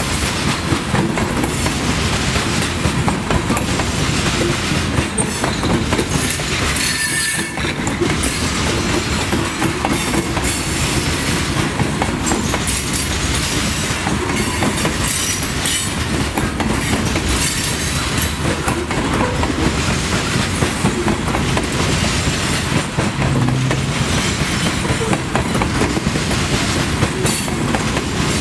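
Loaded CSX covered hopper cars of a grain train rolling steadily past close by: a continuous rumble of steel wheels on rail with clickety-clack, and a brief wheel squeal about seven seconds in.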